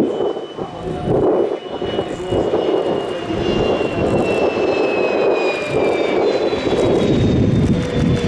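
Jet aircraft flying past: a steady engine rush with a high whine that slowly falls in pitch as it goes by.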